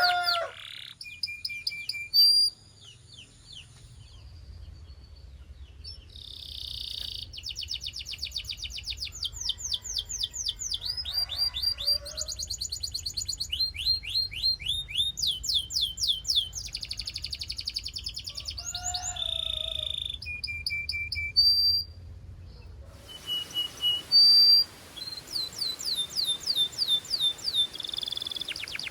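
Canary singing: long runs of fast repeated trill notes, high-pitched, broken by short held whistled notes, with one loud held note near the end.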